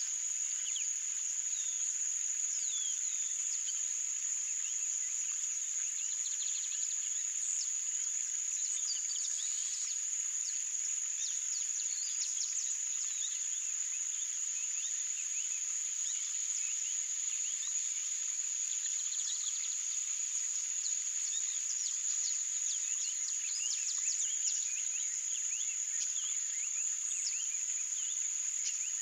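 Marsh ambience: a steady, unbroken high-pitched insect trill, with many short bird chirps and whistles over it.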